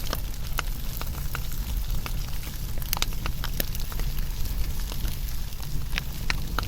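Wood fire burning, crackling with frequent irregular sharp pops and snaps over a steady low rumble, with a few louder pops around the middle and near the end.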